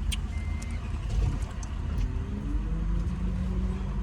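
Car engine idling with a steady low rumble, with one short electronic chime beep just after the start.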